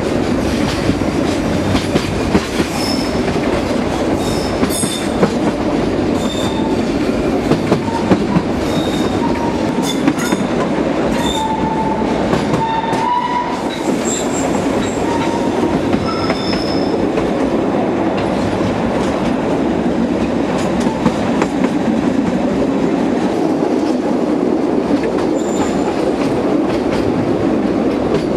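Narrow-gauge (760 mm) train running along the track: a steady rumble of the wagons with short, high squeals of wheels against the rails, many of them in the first half.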